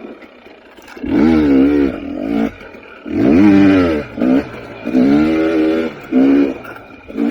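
KTM 300 XC TPI two-stroke dirt bike engine revving in repeated throttle bursts, about six, its pitch rising and falling with each one and dropping back between them.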